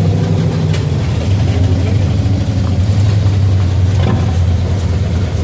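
Car engine running at low revs, a loud steady deep rumble, as a show car drives slowly past.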